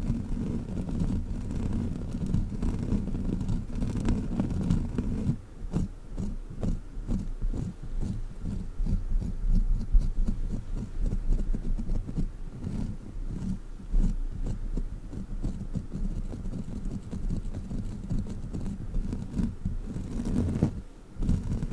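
A sticky crawler toy handled against the microphone. A dull rubbing rumble gives way, about five seconds in, to a run of quick soft sticky taps and smacks.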